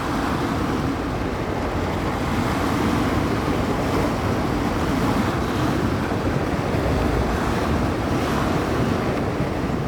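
Small bay waves washing against the shore in a steady wash, with wind buffeting the microphone.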